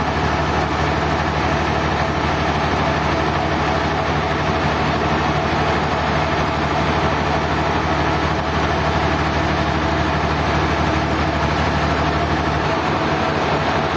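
Sawmill machinery running with a steady engine-like drone and a constant low hum; the deepest part of the hum drops out near the end.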